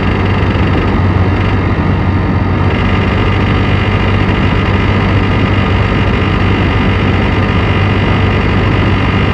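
Piaggio X9 500 scooter's single-cylinder four-stroke engine running steadily with a mechanical clatter, the noise put down to its timing chain and chain tensioner.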